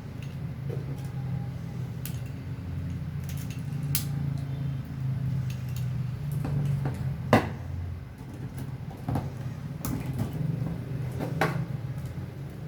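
Bamboo pieces and steel wire being handled during assembly: scattered clicks and knocks, the loudest about seven seconds in, over a steady low hum.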